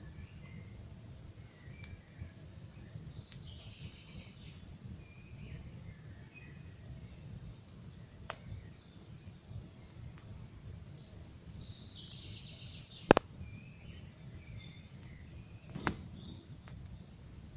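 Campfire crackling, with a few sharp pops, the loudest about two-thirds through, over a low steady rumble, while small birds sing repeated short chirps and a fast trill.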